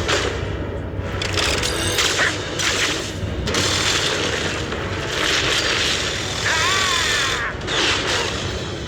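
Cartoon battle sound effects: a string of noisy blasts and crashes with a wavering sci-fi tone about two thirds of the way through, over background music.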